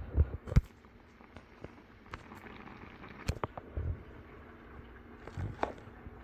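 Scattered knocks and clicks of cookware and utensils being handled, sharpest about half a second in and again around three and a half seconds in, over a faint steady hum.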